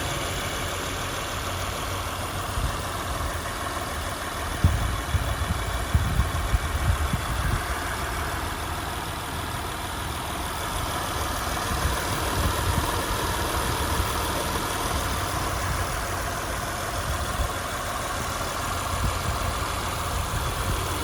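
2004 Honda Accord's 3.0-litre V6 idling steadily, already warm rather than a cold start. A few brief low bumps about five to seven seconds in.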